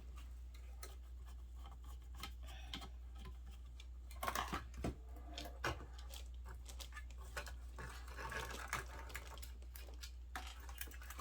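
Light clicks, taps and scraping of small parts and tools being handled while a vintage 1960s intercom is taken apart, busiest about four to five seconds in, over a steady low hum.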